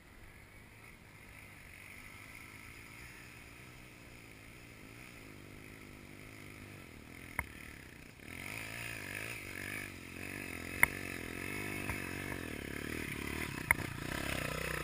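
Honda XR250 Tornado trail bike's single-cylinder four-stroke engine, with the revs rising and falling. It is fairly faint at first and grows louder from about halfway through as the bike comes nearer. Three sharp knocks stand out over it.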